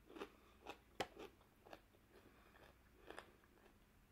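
Faint chewing close to the microphone: a person eating, with soft crunches and wet mouth clicks at an uneven pace, the sharpest about a second in.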